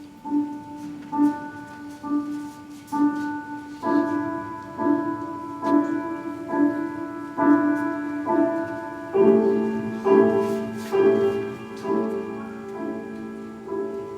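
Slow piano music: evenly spaced chords about one a second, growing fuller about four seconds in and again about nine seconds in.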